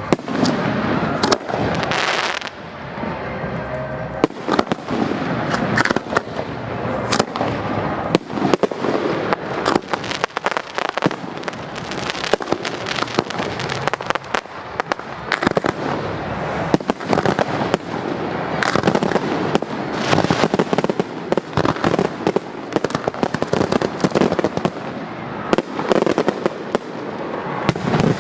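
Aerial fireworks going off in a rapid barrage of bangs and crackle, the shots coming thicker and almost without pause from about a third of the way in.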